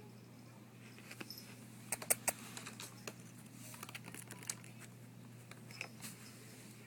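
Light, irregular clicks and scratchy taps from a cat playing on catnip, clawing and batting at a toy mouse, loudest a couple of seconds in.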